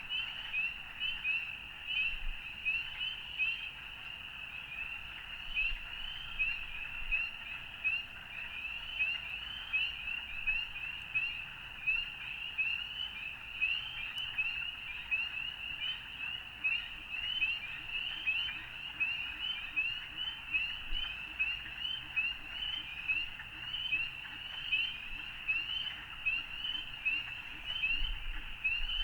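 A dense frog chorus: many short, high calls overlapping without a break.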